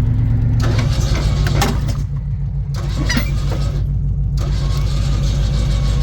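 A vehicle engine running steadily at idle, with a few short knocks over it.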